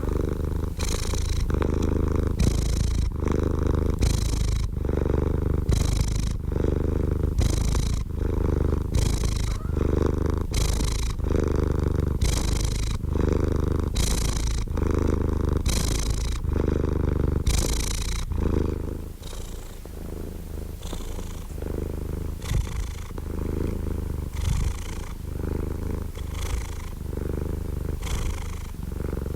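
Domestic cat purring steadily, with an even in-and-out pulse about once a second. The purr gets softer about two-thirds of the way through.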